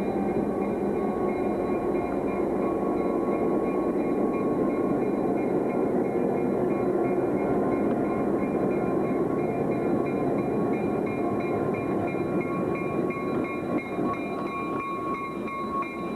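Train moving in a rail yard: a steady heavy rumble with a few thin, steady high-pitched tones over it. A quick, regular ticking runs through the high tones over the last few seconds.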